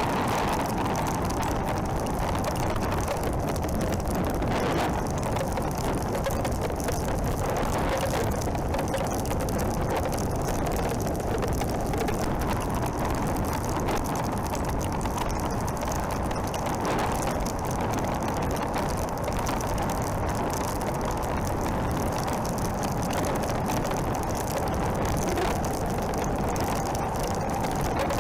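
A motorcycle being ridden, heard through a helmet camera: a steady engine drone mixed with wind rushing over the microphone, holding an even level throughout.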